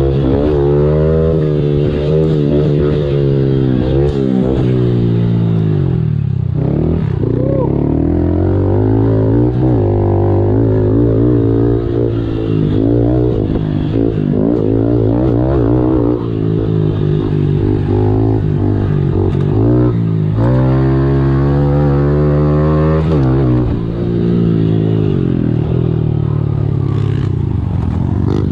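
Small 110cc single-cylinder four-stroke pit bike engine running hard around a dirt track, its pitch climbing and falling again and again as the throttle is opened and closed and gears change.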